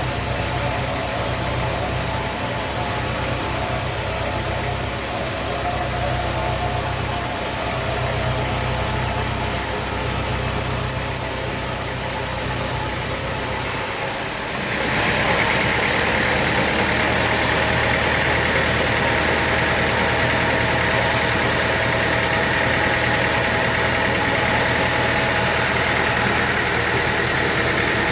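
Sawmill machinery running steadily with a low engine drone. Halfway through the sound briefly dips, then changes to a steady higher whine.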